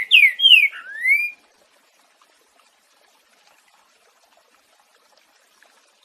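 Green-winged saltator (trinca-ferro) singing the end of a 'boiadeiro' song phrase: a few loud slurred whistles, mostly falling, the last one rising. The song stops about a second and a half in, leaving only faint background sound.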